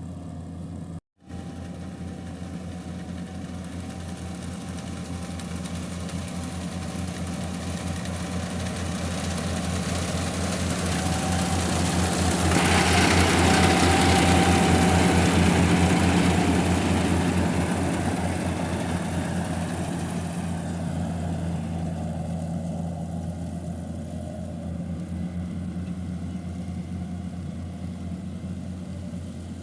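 Kubota combine harvester's engine running steadily at work with a fast even pulse, growing louder with a wide rushing hiss as it comes close about halfway through, then fading as it moves away.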